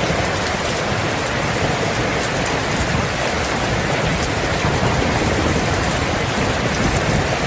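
Steady rain: a dense, even hiss with a low rumble underneath.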